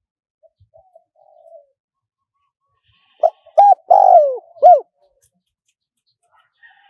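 Spotted dove cooing: a few faint soft notes, then about three seconds in one loud song phrase of short coos around a longer coo that falls in pitch, closing with a last short coo.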